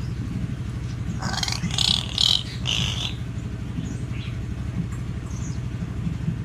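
Hill myna giving one loud, harsh call in about three parts, starting about a second in and lasting some two seconds, over a steady low hum.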